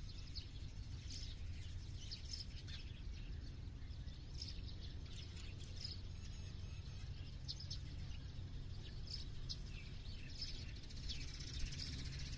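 Small birds chirping, many short high calls overlapping at irregular intervals, over a steady low background rumble.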